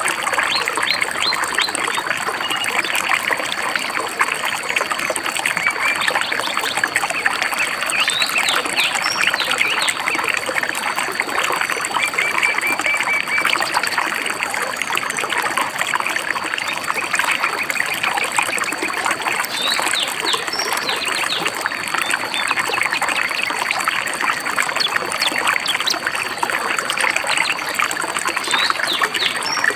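Shallow stream babbling and trickling steadily over stones, with songbirds chirping throughout, including a short rapid trill about a third of the way in.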